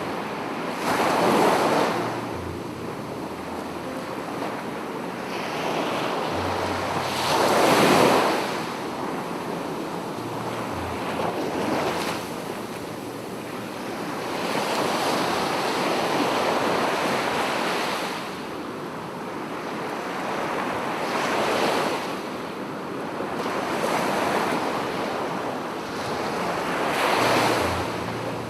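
Sea surf breaking on the shore, each wave swelling into a loud rush and falling back every few seconds, the biggest break about eight seconds in.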